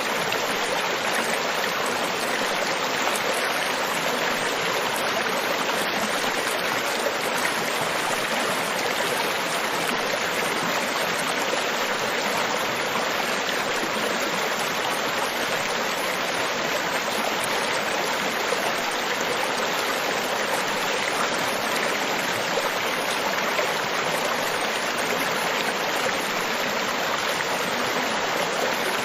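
Tropical beach ambience: a steady rush of breaking surf water, an even hiss with no separate wave swells standing out.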